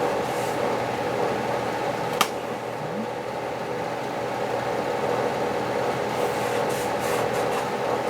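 A steady mechanical hum with several level tones in it, like a fan or motor running in the shop, with one sharp click about two seconds in and faint rustling of tape being handled and pressed down.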